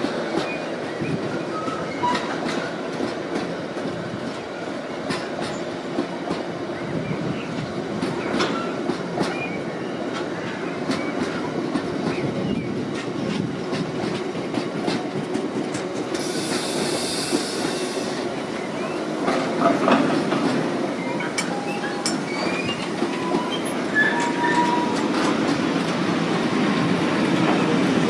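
A freight train of bogie tank wagons rolling past, wheels clicking steadily over the rail joints. Several short wheel squeals come through, and a brief hiss sounds about two-thirds of the way through.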